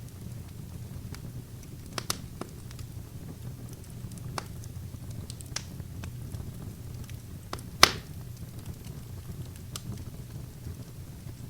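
Wood fire burning: scattered crackles and pops over a steady low rumble of flames, with one loud sharp pop about two-thirds of the way through.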